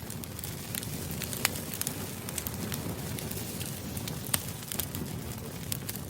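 Campfire crackling: frequent sharp pops and snaps over a steady low rush of burning flames, with a couple of louder pops.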